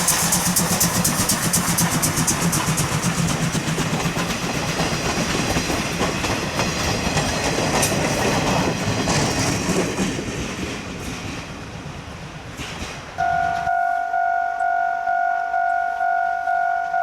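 C12 66 steam locomotive running past with a train, its rapid exhaust beats and wheel noise fading away. About thirteen seconds in, the sound changes abruptly to a railway level-crossing warning bell ringing steadily, a repeated two-tone clang about one and a half times a second.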